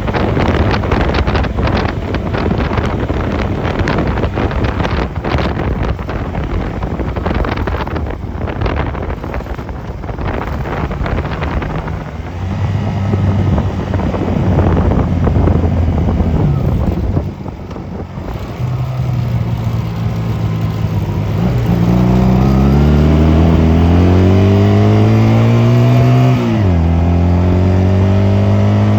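Honda 250cc motorcycle riding along with wind buffeting the microphone; then the engine note comes through clearly and climbs in pitch as it accelerates. Near the end a gear shift drops the pitch suddenly before it rises again.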